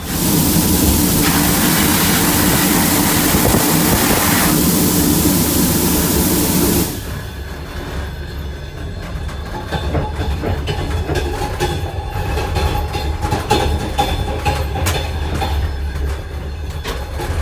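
Passenger railway car running on the rails, heard on board. A loud rushing noise cuts off suddenly about seven seconds in, leaving a quieter rumble of wheels on track with scattered clicks and a faint thin whine.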